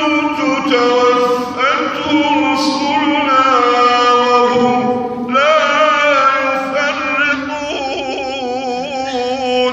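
A man's voice in melodic Quran recitation (tajweed), drawing the verse out in long, ornamented held notes that waver and glide between pitches. It ends abruptly at the close.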